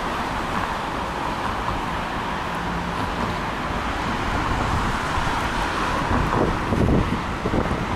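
Steady outdoor noise of strong wind rumbling on the microphone, mixed with road traffic.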